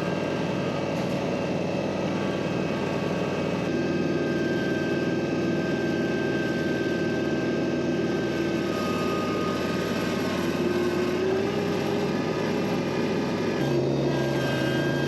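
An engine running steadily, its pitch shifting slightly about ten seconds in.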